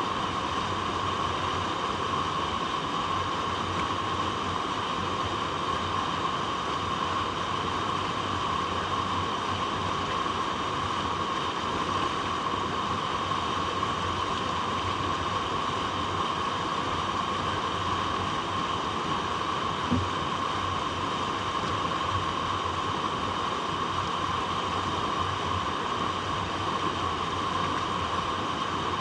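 Steady rush of water flowing over rocks, even and unbroken, with one brief soft thump about two-thirds of the way through.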